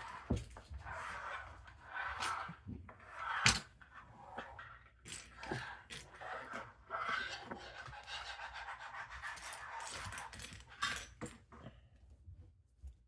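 Lego pieces and their plastic bags being handled: rustling with scattered sharp clicks and taps, the loudest click about three and a half seconds in.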